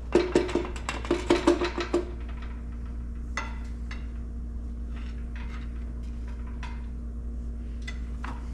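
Metal engine parts clinking and rattling against each other in quick succession for about two seconds, then a steady low hum with a few light, scattered clicks.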